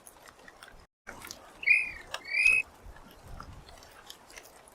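A bird giving two short whistled calls in quick succession, over faint background noise, as part of a call pattern that repeats every few seconds.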